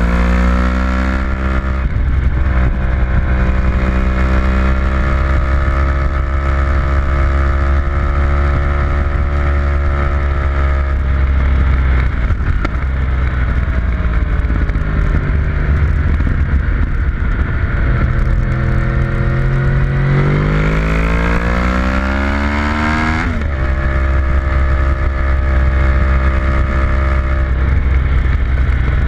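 A vehicle's engine at racing speed on a track, heard onboard: it holds a high pitch, drops off the throttle about eleven seconds in, climbs steadily again and breaks at an upshift about twenty-three seconds in. A heavy low rumble runs under it.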